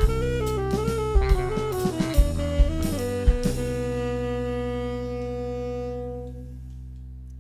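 Jazz band playing: a saxophone melody over drum kit and bass with sharp drum hits. About three seconds in, the band lands on a final held chord that slowly fades out.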